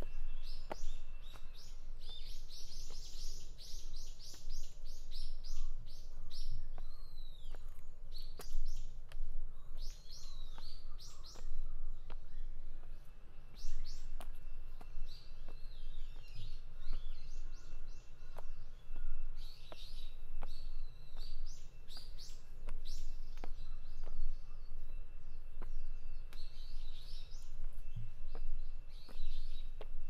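Wild songbirds chirping and singing, with quick trills of short repeated notes coming again and again, against a steady low background rumble.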